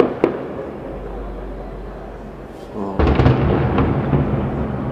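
Aerial fireworks shells bursting: two sharp bangs at the start, then a dense run of crackling and booms from about three seconds in.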